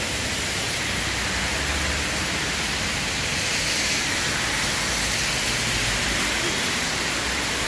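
Heavy typhoon rain pouring down, a steady rush of water with runoff gushing from a drain pipe.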